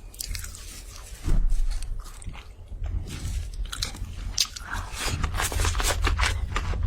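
Close-miked eating: crunchy bites and chewing, with short crackly clicks and a heavy low thump about a second in.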